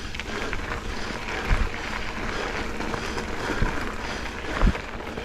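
Mountain bike riding on a gravel double track: a steady rush of wind and tyre noise, with two hard low thumps from bumps, about one and a half and four and a half seconds in.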